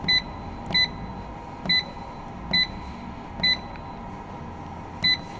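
Touchscreen control panel of a silage baler-wrapper beeping at each key press: six short, high beeps about a second apart, with a longer pause before the last, as values are entered. A steady low machine hum runs underneath.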